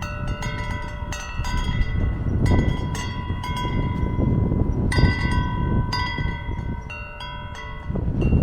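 Wind chimes ringing irregularly, several metal tones struck again and again and left to ring, over gusting wind rushing on the microphone.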